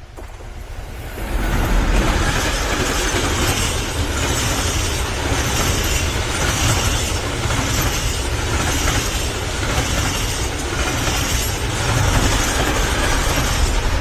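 A freight train passing close by. It builds up over the first second and a half, then runs on as a loud, steady rumble of rolling wagons with a regular wheel clatter about once a second.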